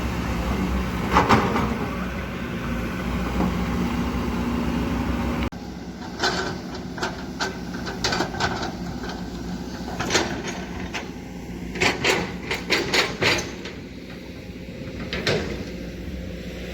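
Kobelco hydraulic excavator running, its engine a steady hum, with a metallic clank about a second in. About five seconds in the engine sound drops abruptly, and irregular sharp knocks and clacks follow, scattered through the rest.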